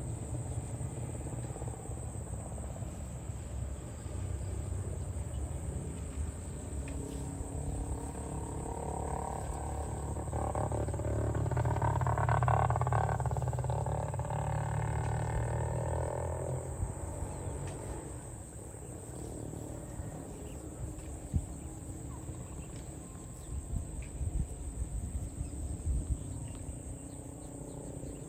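A cow mooing: one long, drawn-out low call, rising in loudness and fading off, about a third of the way in. It sits over a steady low rumble and a constant high thin whine.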